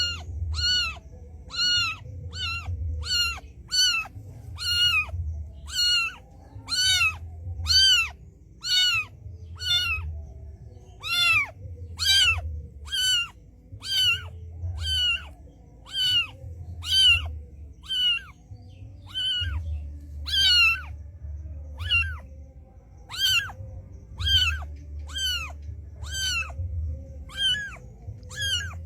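A cat meowing over and over, short high meows at about one a second, each rising and falling in pitch, with a brief pause about two-thirds of the way through.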